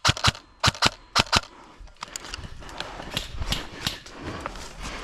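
An airsoft replica firing six quick sharp shots, in pairs, in the first second and a half, followed by softer irregular rustling and steps.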